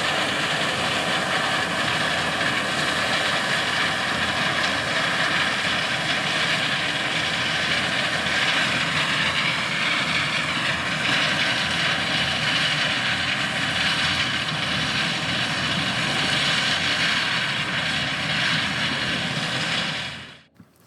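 Large diesel harvest machinery running steadily in a corn field: a continuous engine and machinery din with a faint steady whine through it. It cuts off suddenly near the end.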